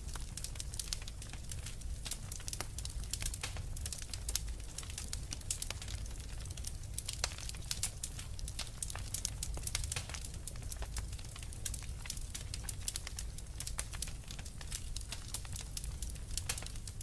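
Wood fire crackling in a fireplace: a dense run of sharp, irregular pops and snaps over a steady low rumble of burning.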